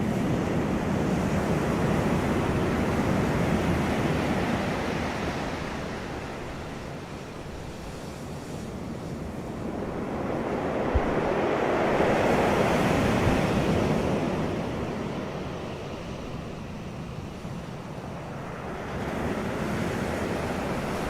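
Wind blowing across the microphone, swelling and easing in slow gusts every several seconds, with a brief small click about halfway through.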